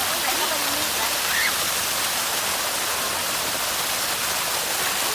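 Artificial waterfall: a steady, unbroken rush of falling water.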